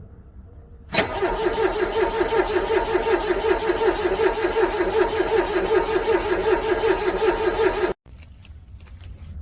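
Car starter cranking a cold engine for about seven seconds, pulsing evenly, without the engine catching; the cranking stops abruptly.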